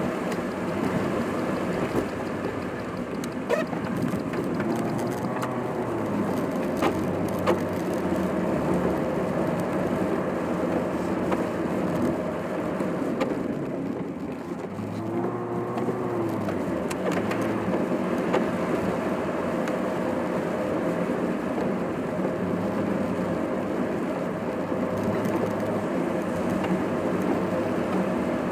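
Car driving, heard from inside the cabin: steady engine and road noise, with the engine note briefly rising and falling twice. The sound runs at double speed.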